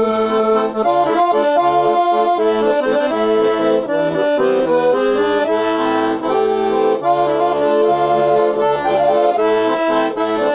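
Bayan (Russian button accordion) playing an instrumental interlude: a melody over held chords, with short bass notes stepping beneath.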